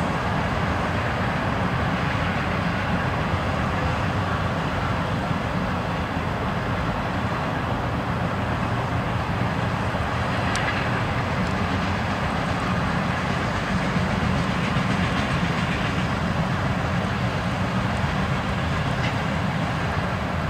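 Freight train cars rolling steadily past on the track, a continuous rumble and rattle, with a sharp click about halfway through.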